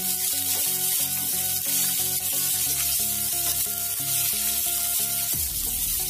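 Sliced onions, green chillies and ginger-garlic sizzling in hot oil in a nonstick pan as they are stirred, a steady frying hiss. Background music with regularly changing chords plays under it.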